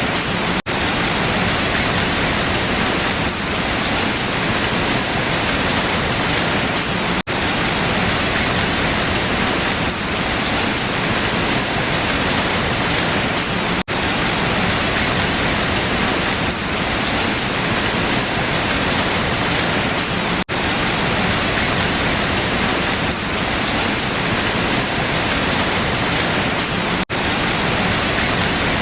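Steady heavy rain falling on leaves, a dense even patter, broken by a very brief dropout about every six and a half seconds where a short recording loops.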